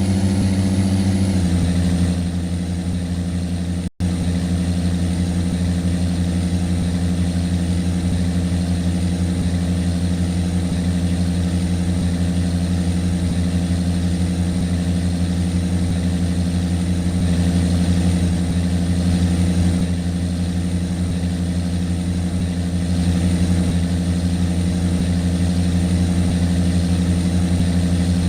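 A boat's engine running steadily at low revs, a deep even drone. Its pitch eases down a little about a second and a half in, and there is a momentary break in the sound about four seconds in.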